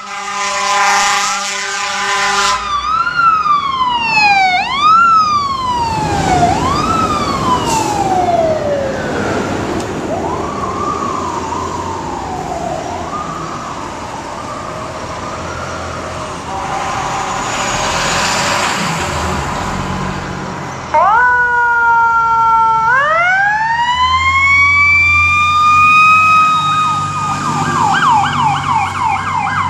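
Fire engine sirens and horn on a run: a steady horn blast at the start, then a wailing siren sweeping up and down that fades away. About 21 seconds in, a louder siren comes in suddenly and winds up in pitch to a high steady wail, switching to a fast yelp near the end.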